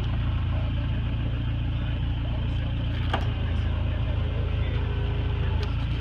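Toyota 22R-TE turbocharged four-cylinder engine running steadily with a low rumble, with a sharp click about halfway through and another near the end.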